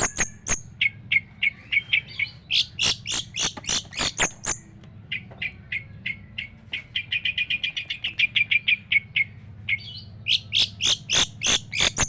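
Long-tailed shrike singing a harsh, scratchy song of rapid repeated notes. About seven seconds in it breaks into a fast even run of about six notes a second, then goes back to louder, harsher calls.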